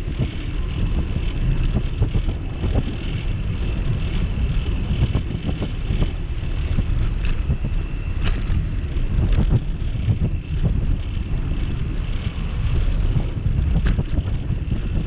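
Wind buffeting the microphone of a camera mounted on a moving bicycle, a dense fluttering rumble. A few sharp clicks or knocks sound about eight, nine and a half and fourteen seconds in.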